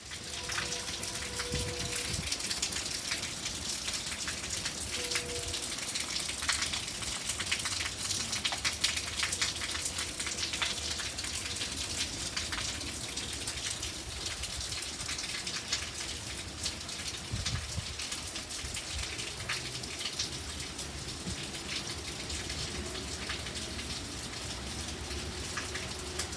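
Heavy rain coming down hard: a steady, dense hiss with countless individual drop hits.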